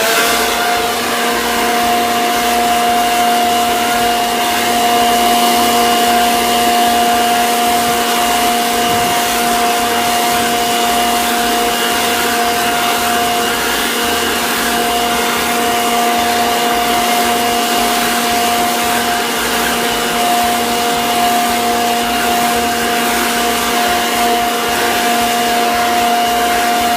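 Leaf blower running steadily at full speed: a constant whine over a loud rush of air, blowing light, powdery snow.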